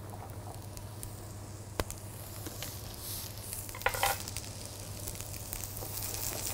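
Diced courgette sizzling in hot oil in a frying pan, the sizzle growing from about two seconds in as the pieces heat. A sharp tap comes just before the sizzle builds, and a short louder flare about four seconds in.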